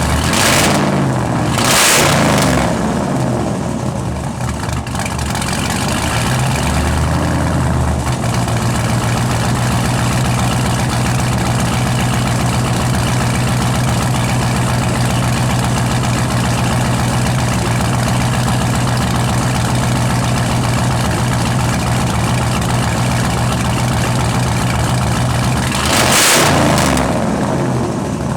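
Supercharged 6.0-litre LS V8 idling on its first run after a rebuild with a new cam, with two quick throttle blips near the start and another near the end.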